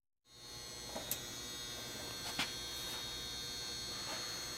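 Steady electrical hum with a few faint clicks, after a split second of dead silence at the start.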